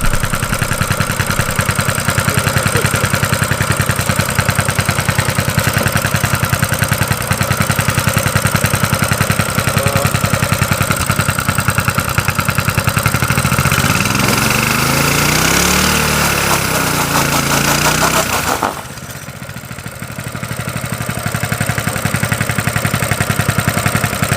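Coleman CT200U-EX mini bike's small single-cylinder four-stroke engine running steadily, now running again after its carburetor was cleaned. About 14 s in it revs up and back down. Near 19 s it suddenly gets much quieter, then builds back up over a few seconds.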